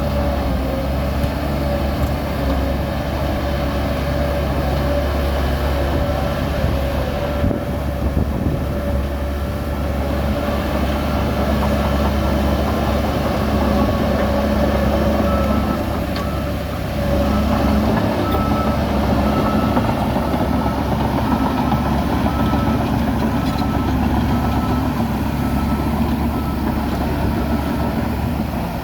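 Heavy diesel engines of a bulldozer and truck running steadily, with a faint regular beeping in the second half.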